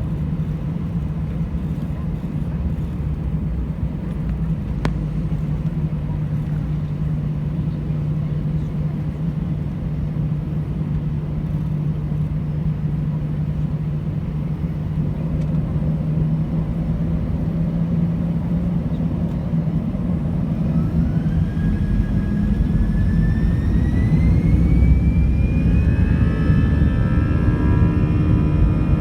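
Airbus A320 jet engines with a steady low hum, then from about two-thirds of the way through a whine that climbs steadily in pitch as the engines spool up, the noise growing louder.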